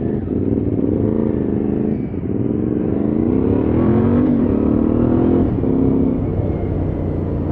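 Adventure motorcycle engine accelerating through the gears: the pitch climbs, drops at each shift, and climbs again, three or four times.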